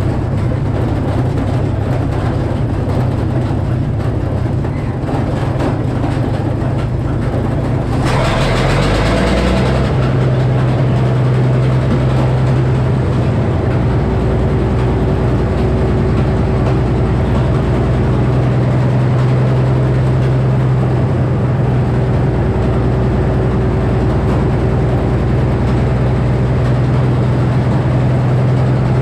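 Sawmill power unit and 48-inch circular saw running steadily. About eight seconds in there is a brief louder rush of hiss lasting a couple of seconds, after which the hum settles into a steadier tone.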